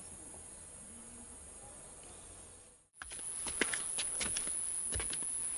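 Rainforest insects shrilling in a steady high-pitched drone. It drops out briefly about three seconds in and comes back louder, with scattered sharp clicks.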